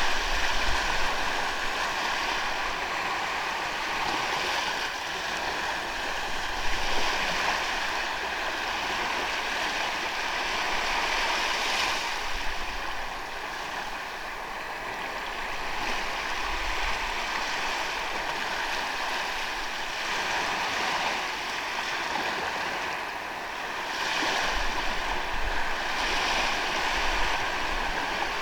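Ocean waves washing onto a sandy beach in a continuous hiss of surf that swells every several seconds, with occasional low rumbles of wind on the microphone. A faint steady tone runs underneath.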